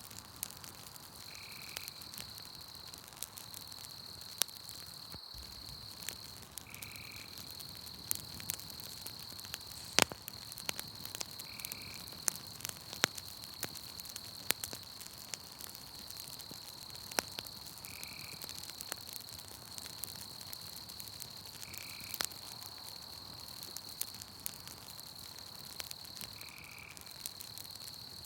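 Campfire crackling with scattered sharp pops, the loudest about ten seconds in, over a steady high insect trill from the night forest. A short call repeats about every four to five seconds.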